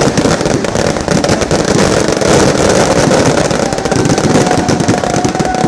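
Dense, rapid crackling of firecrackers going off, many pops a second, with a steady whistling tone coming in over the last two seconds.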